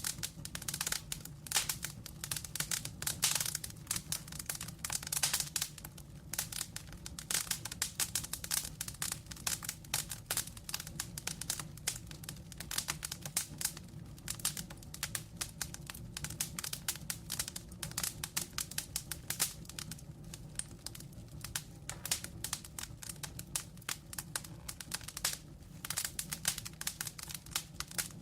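Wood fire of burning logs crackling, with dense, irregular pops and snaps over a steady low rumble of flame.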